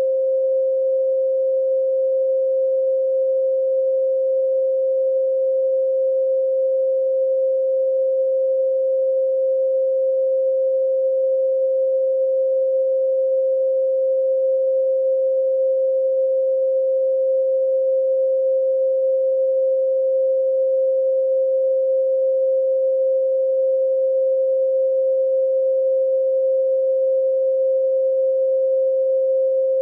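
A steady 528 Hz pure sine tone, held at one pitch and one loudness without a break.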